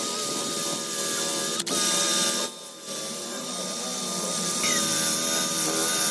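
Small electric power tool running steadily with a high whine and hiss, briefly easing off about two and a half seconds in.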